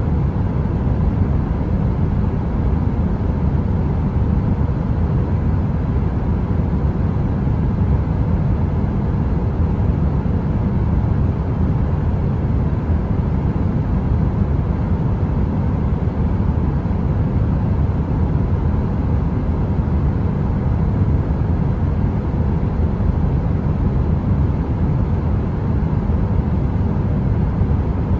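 Heater running: a steady, deep rumbling noise like brown noise, with a faint hum over it and no crackles.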